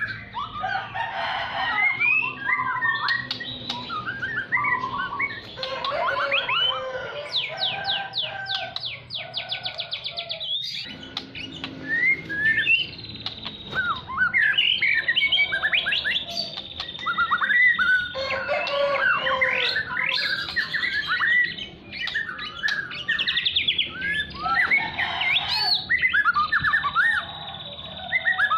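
White-rumped shama (murai batu) singing a loud, varied song of rising and falling whistled phrases, broken by fast rattling trills, once about eight seconds in and again later on.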